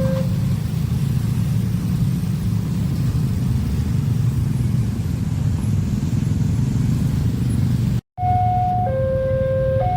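Train passing a level crossing: a loud, steady low rumble. After a brief cut near the end, the crossing's two-tone warning alarm returns, alternating between a lower and a higher note over the rumble.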